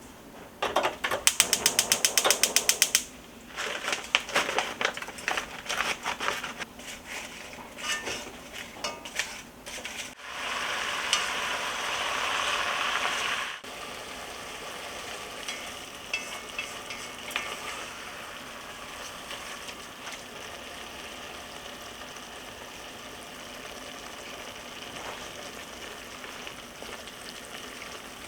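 Kitchen cooking sounds: a quick run of rapid, even clicks, then scattered knocks of utensils. Food then sizzles as it fries in a pot, loudest for a few seconds in the middle and then settling to a quieter, steady sizzle.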